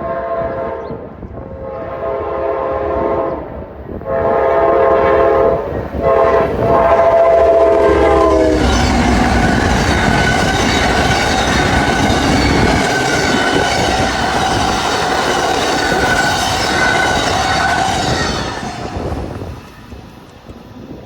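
Locomotive air horn sounding a series of blasts, the last one held longest, as a train approaches a crossing. The train then passes close by at speed with loud wheel and rail noise, which dies away near the end.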